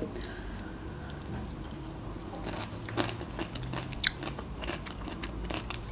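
Chewing a piece of pickled cucumber with the mouth near the microphone: irregular wet crunches and clicks, a few sharper ones in the middle.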